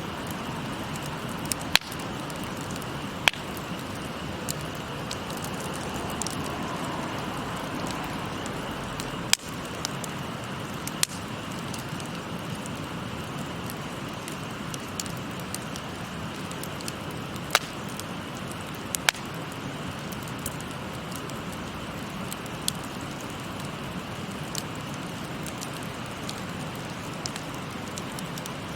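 Wood fire crackling, with scattered sharp pops every second or few, over the steady rush of a flowing stream.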